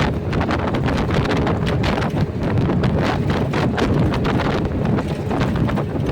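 Wind buffeting the microphone over the road noise of a moving vehicle, full of rapid, irregular knocks and rattles.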